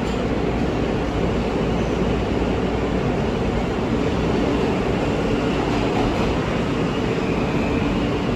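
New York City subway train running steadily: an even, continuous rumble and rush of rail noise with no breaks.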